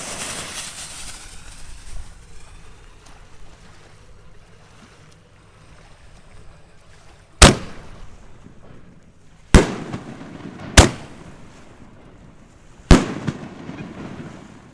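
Two 4-inch canister firework shells going off: four sharp, echoing bangs in two pairs a couple of seconds apart, after a hiss that fades out in the first two seconds.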